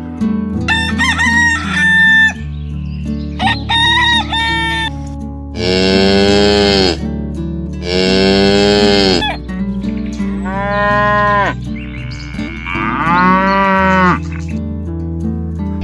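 Animal calls over a steady background music track. There are two short, high calls near the start, then four long, drawn-out calls that rise and fall in pitch.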